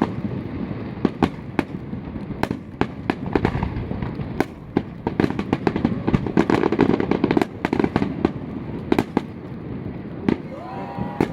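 Aerial fireworks going off: an irregular run of sharp bangs and crackles over a steady low rumble, densest in rapid clusters a little past the middle.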